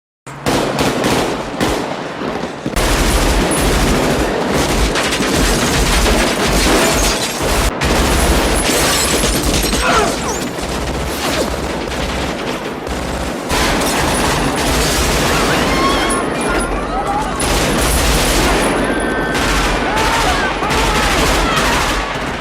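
Heavy sustained gunfire, many rifle and automatic-weapon shots overlapping in a rapid fusillade, with men shouting through it. It starts abruptly just after the start.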